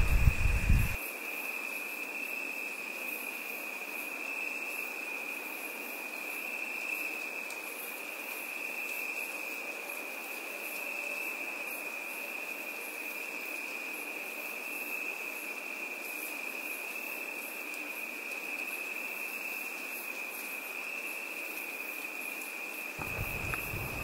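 Insects trilling in one steady, unbroken high note, with a faint rapid pulsing above it. A louder low rumble fills the first second, and irregular low thuds come in about a second before the end.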